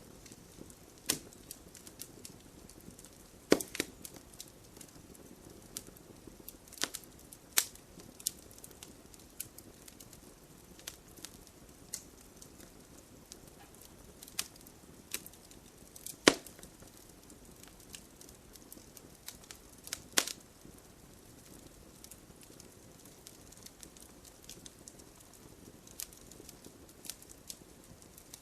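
Wood fire crackling: irregular sharp pops and snaps over a soft low hiss, with a few louder snaps several seconds apart.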